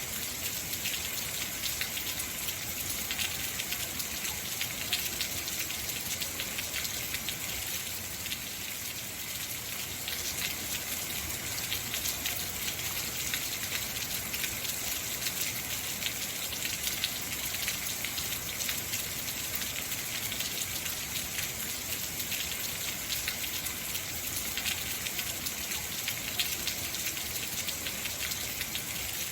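Heavy rain falling steadily, a dense even patter of drops on hard surfaces.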